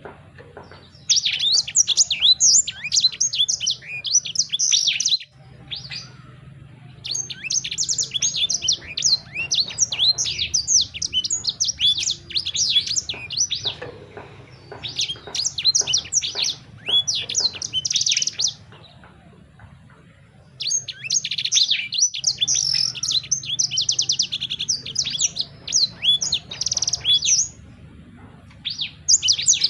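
A songbird sings fast, high chirps and trills in phrases several seconds long, with short pauses between them.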